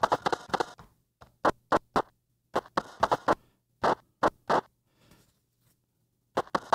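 Short glitchy noise-burst sample slices played back one after another on a Roland SP-404 MkII sampler, irregularly spaced, with a pause of about a second and a half before a last few bursts. The slices are chops of recorded glitch noise, auto-marked at their transients.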